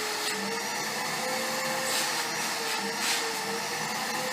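Household vacuum cleaner running steadily, a hiss of rushing air over a motor whine that wavers slightly in pitch.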